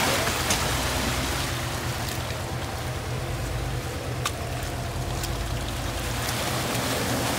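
An off-road 4x4's engine running steadily at low revs under a haze of noise, with one sharp click about four seconds in.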